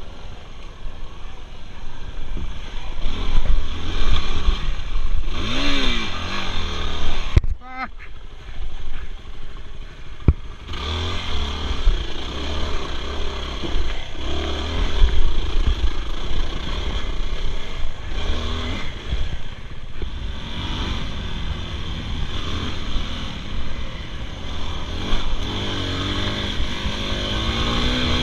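Dirt bike engine running hard under throttle, its pitch rising and falling as it revs, with a brief drop in sound about a quarter of the way in.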